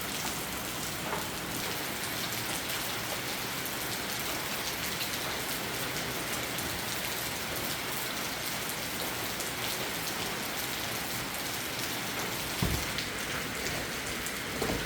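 Steady heavy rain pouring down on a surface, an even hiss with fine pattering, from a big storm. A single dull thump sounds once near the end.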